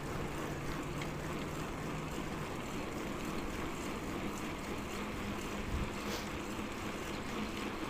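Steady rush of wind on the microphone and rolling noise while riding a bicycle, even throughout.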